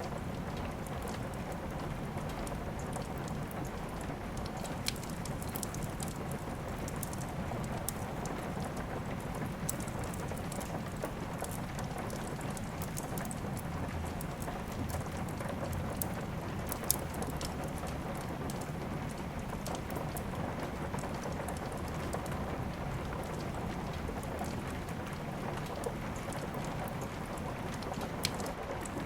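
Steady rain falling, with a few sharp crackles and pops from a wood fire in a fireplace scattered through it.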